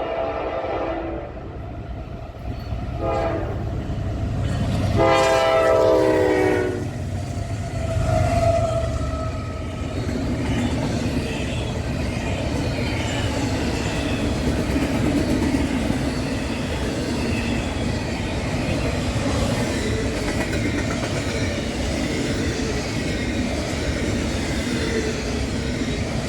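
Train horn sounding for a grade crossing in several blasts: one fading out at the start, a short one about three seconds in and a longer one about five seconds in. Then the train runs past with a steady rumble and clatter of wheels on rail.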